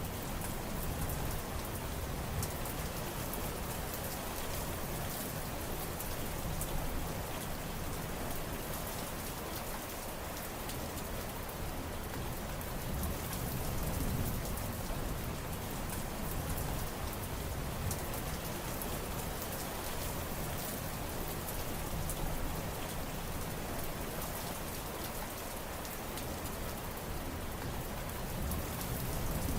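Steady rain falling on surfaces, an even hiss with the fine patter of drops and a low rumble underneath.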